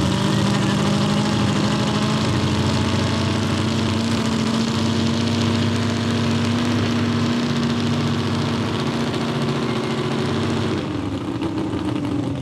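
Pulling-tractor engines fired up and running loud and steady at idle, a constant drone with a strong hiss over it, easing off in level about eleven seconds in.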